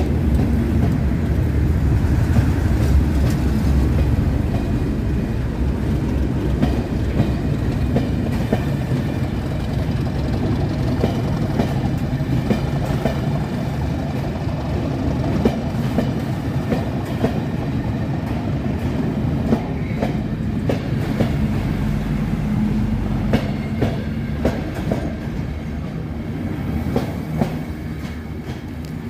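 Class 37 diesel locomotive passing close by with its English Electric engine running, followed by the coaches of the test train rolling past with repeated clicks of wheels over rail joints. The sound eases off near the end as the train moves away.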